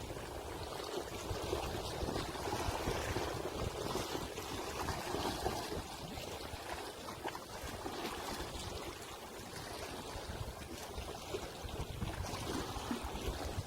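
Sea waves washing ashore in a continuous hiss, swelling in the first few seconds, easing in the middle and building again near the end.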